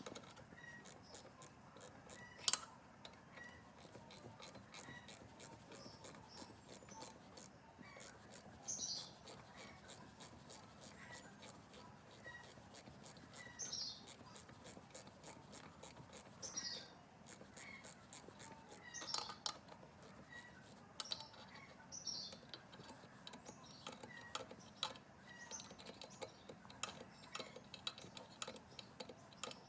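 Faint, rapid light clicks and ticks, with a few short high chirps, like a small bird's, here and there.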